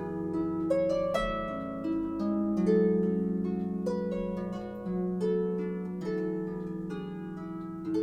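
Background harp music: plucked notes and chords ringing on.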